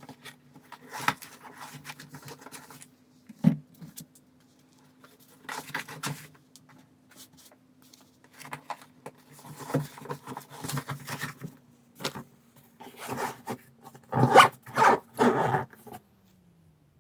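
Handling noises: irregular clicks, rustles and zipper-like scrapes, the loudest cluster near the end, over a steady low hum that winds down just before the end.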